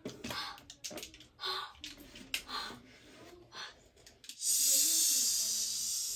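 A child making mouth sound effects: short breathy puffs, then a long, loud 'shhh' hiss like escaping steam, held for nearly two seconds near the end.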